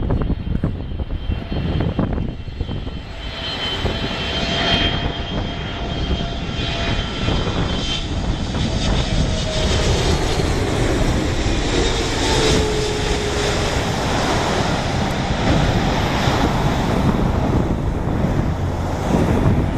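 Jet engines of a Boeing 777-300ER coming in to land: a steady, loud jet rumble with faint whining tones that slide slightly down in pitch.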